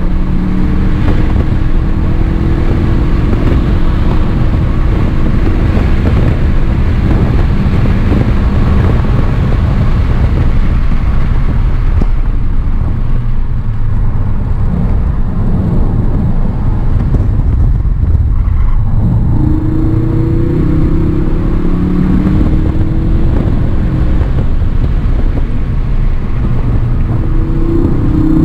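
Ford Focus engine heard from inside the cabin under hard driving, over constant low road noise. It pulls and rises in pitch at the start, drops back while the car brakes through a slow corner in the middle, then rises again as it accelerates near the end.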